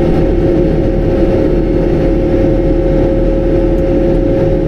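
Tractor diesel engine running steadily under way, holding one even pitch and level.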